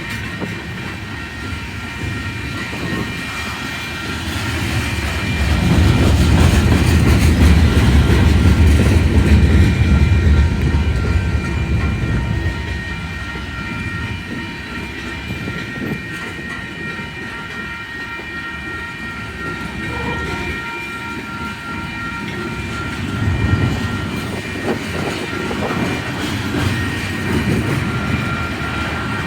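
Slow-moving Union Pacific manifest freight train's cars rolling through a grade crossing, wheels clacking over the rails, with steady ringing from the crossing signal behind. The low rumble swells loudest for several seconds in the first half, then eases.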